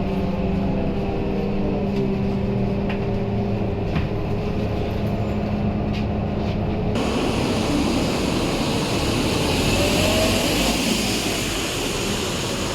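Scania K230UB bus engine running steadily with a few light clicks. About seven seconds in, the engine note gives way suddenly to a loud, even rushing noise.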